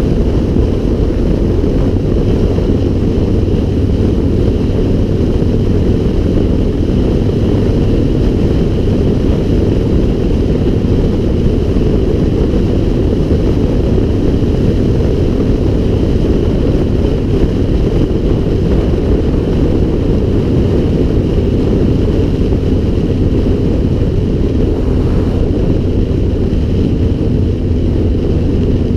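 Loud, steady wind rumble on the action camera's microphone while riding, over a steady low hum.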